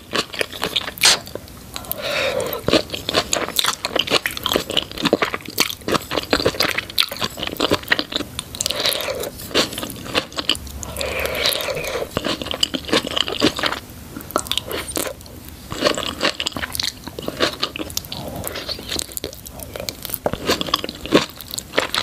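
Close-miked chewing of spoonfuls of cheesy sweet corn. The kernels crunch and the mouth makes wet smacking sounds, coming as a quick, irregular run of sharp clicks and crackles.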